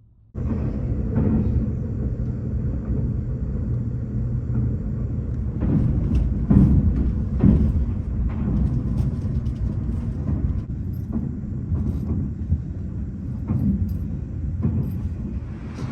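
Train running, a steady low rumble with a run of sharp knocks and clatters about six to eight seconds in.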